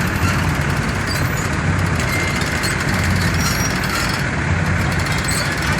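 An engine running steadily, a continuous low rumble with no change in speed.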